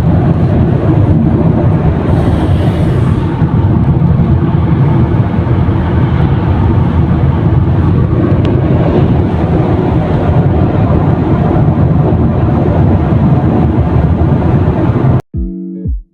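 Loud, steady low rumbling noise that cuts off suddenly about fifteen seconds in, where plucked guitar music begins.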